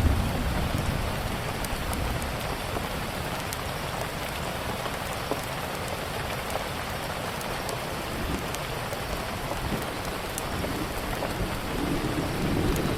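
Steady rain, with scattered sharp crackles from a wood fire. A low thunder rumble builds near the end.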